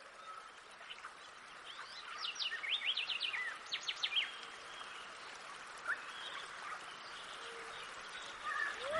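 Small birds chirping: a run of quick, high chirps from about two to four seconds in, then a single chirp near six seconds, over a steady faint hiss.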